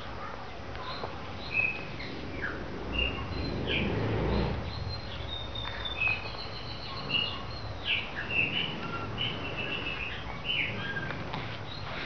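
Small birds chirping and calling in short, high notes, again and again. A brief low rumble comes about three to five seconds in.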